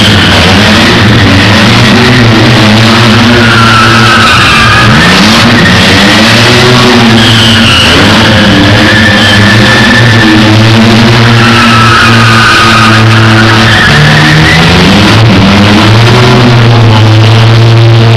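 A BMW car's engine revving hard while its tyres squeal several times through repeated skids, very loud.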